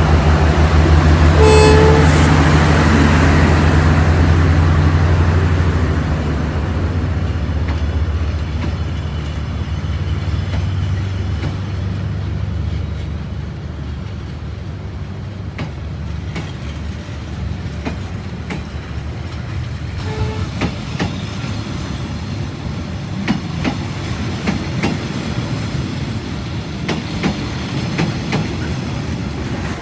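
Train passing: a short horn blast about two seconds in, then a steady low engine drone and rail rumble that fade over the first dozen seconds. After that come scattered clicks of wheels over rail joints and a brief faint horn toot about twenty seconds in.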